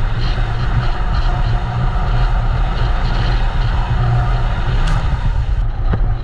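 Jet ski engine running steadily at speed, mixed with a constant rushing hiss.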